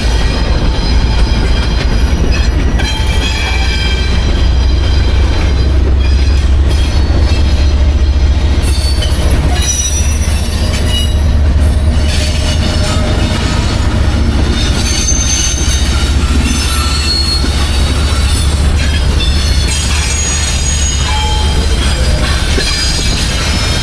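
Freight train's cars rolling past with a loud, steady rumble, with short, thin high-pitched wheel squeals coming and going throughout.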